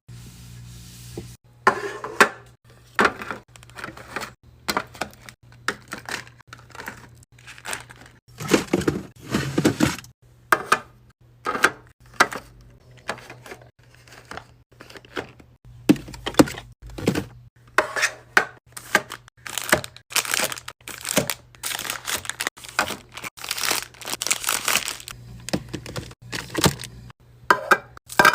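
Plastic and paper packaging crinkling and tearing, with many short knocks and clunks of containers being handled and set down while a fridge is restocked.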